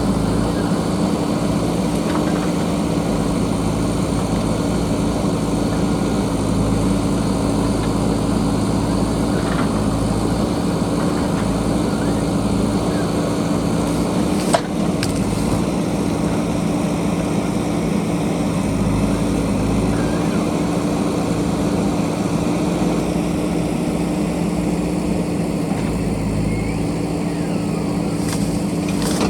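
Diesel engine of a JCB backhoe loader running steadily under work. A single sharp knock about halfway through.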